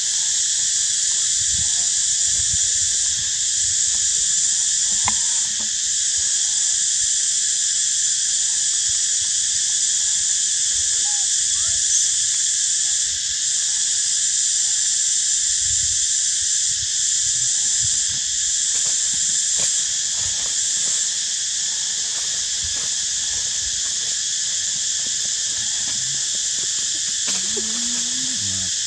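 Dense, steady insect chorus, a continuous high-pitched shrill buzz that holds at the same level throughout, with a few faint short calls beneath it.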